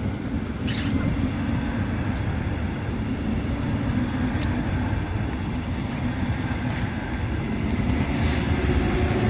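Passenger train running past close by: a steady low rumble that grows louder, with a high-pitched squeal joining about eight seconds in.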